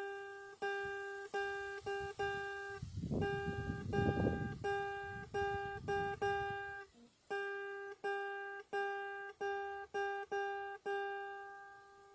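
Guitar plucking the same note over and over, about every half second, each pluck ringing and fading, with two short pauses. About three seconds in, a low rushing noise swells and fades over roughly two seconds beneath the notes.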